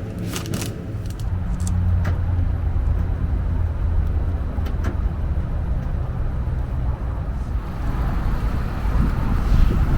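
A car driving: a steady low engine and road rumble, with a few light clicks in the first couple of seconds.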